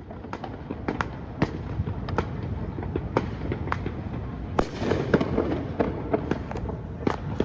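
Fireworks going off all around, with many irregular bangs and pops over a constant low rumble of distant blasts; several louder bangs come in the second half.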